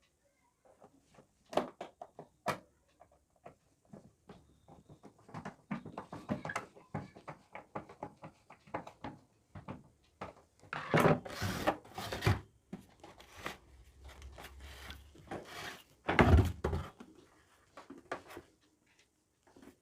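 Screws being fitted into an electric water heater's casing, with irregular clicks, knocks and scraping as the parts are handled; the loudest knocks come about eleven and sixteen seconds in.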